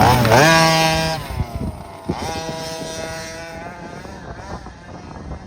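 A 36cc two-stroke petrol engine in a 1/5-scale RC rally car revving hard: its pitch dips and climbs, holds at high revs, lets off, then rises again about two seconds in before fading as the car drives away.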